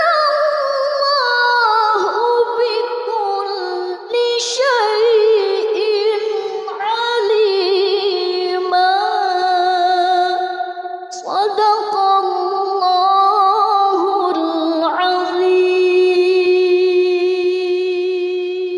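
A woman's voice reciting the Quran in melodic tajwid style, drawing out the verse in long, ornamented held notes with quick turns of pitch. It takes a breath and starts a new phrase twice, then settles on one long, steady low note.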